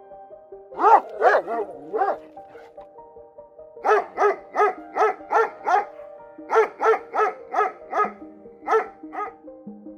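A dog barking in short, high-pitched yaps, a few at first and then in quick runs of about three a second, over soft background music.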